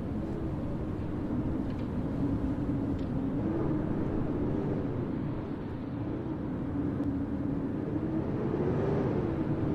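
Steady city-street ambience in a snowstorm: continuous wind noise with a low hum that now and then drifts up and down in pitch.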